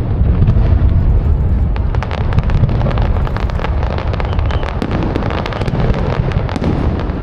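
Fireworks display: shells bursting in a continuous low rumble of booms, with dense crackling that thickens from about two seconds in.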